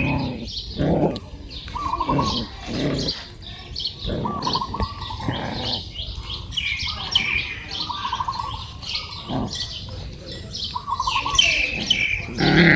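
Birds chirping: many short high chirps, with a warbling call that repeats about every three seconds.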